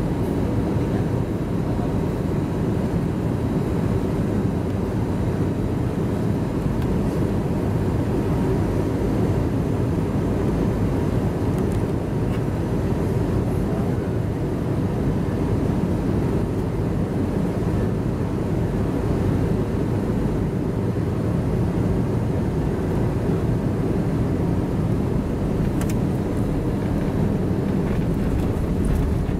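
Steady cabin noise inside an Airbus A321 airliner: an even, low drone of engines and rushing air, with a faint steady whine on top.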